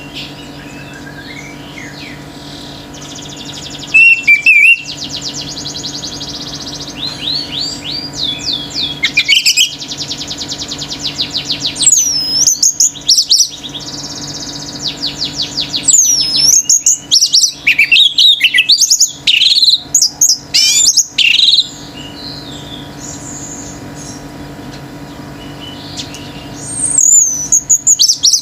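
Orange-headed thrush singing: varied phrases of sweeping whistled notes and fast rattling trills, with brief pauses between phrases and the loudest run of phrases past the middle.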